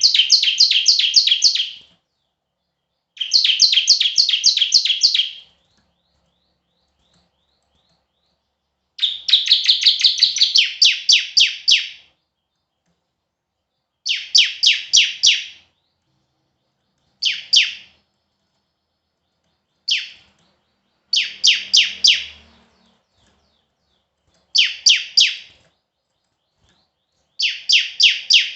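Bar-winged prinia (ciblek) singing in bursts of rapid, evenly repeated sharp high notes, about five a second. Each burst lasts one to three seconds, with short pauses between.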